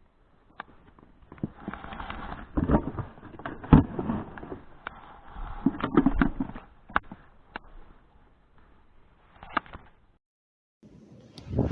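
Irregular knocks, taps and rustling from handling things in a boat, likely the freshly caught perch and the tackle being dealt with. The sound cuts off suddenly near the end.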